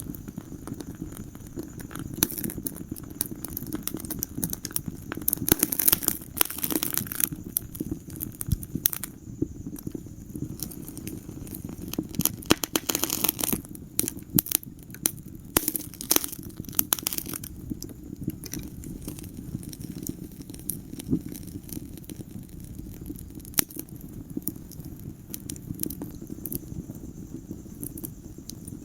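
Wood fire burning in a fireplace: steady low rumble of the flames with irregular crackles and sharp pops, crackling busier around five seconds in and again from about twelve to seventeen seconds in.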